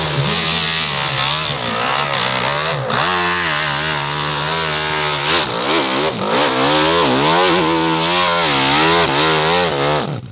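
Hill-climb dirt bike engine at high revs, the throttle worked on and off so the pitch swings up and down again and again, cutting off suddenly at the end.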